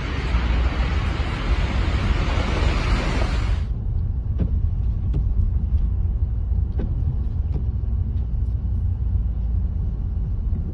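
Steady low rumble with a rushing hiss that cuts off suddenly about four seconds in, after which the rumble goes on with a few faint ticks.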